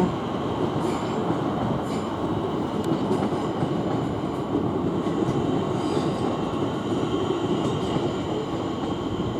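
Southeastern Class 465 electric multiple unit running past, a steady rumble of wheels on rails.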